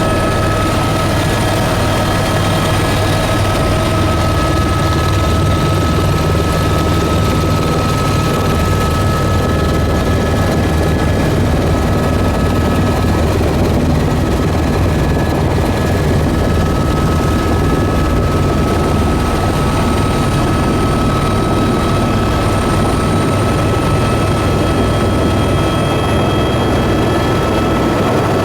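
Loud, steady drone of a sightseeing aircraft's engine, with a thin whine held over it.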